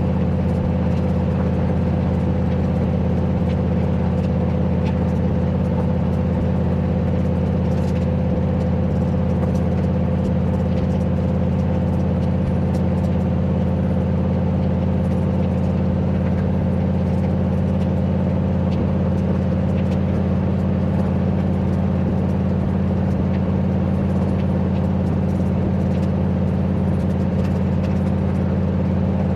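Turbocharged 351 Windsor V8 of a Fox-body Mustang running at a steady, unchanging speed, a loud low drone that holds its pitch throughout.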